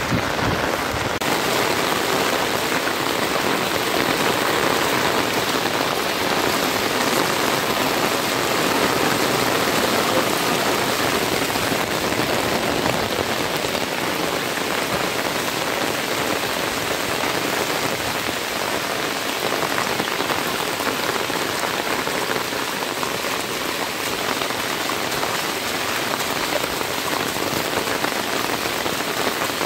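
Heavy rain pouring steadily onto a flooded road, a dense, even hiss.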